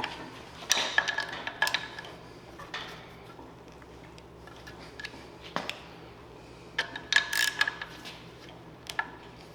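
Metal tools and parts clinking and rattling against each other in two short bunches, about a second in and again around seven seconds, a few of the clinks ringing briefly. A faint steady low hum runs underneath.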